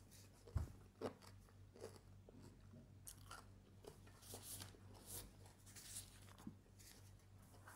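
Faint eating sounds: scattered soft crunches and mouth noises of chewing, with a dull knock about half a second in, over a low steady hum.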